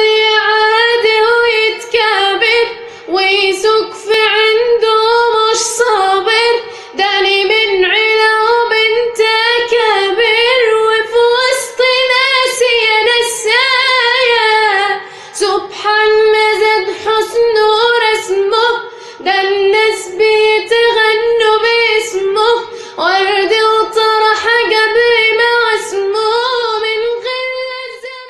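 A single high-pitched voice singing unaccompanied in long, ornamented phrases, the pitch bending and wavering on held notes, with short breath pauses between lines.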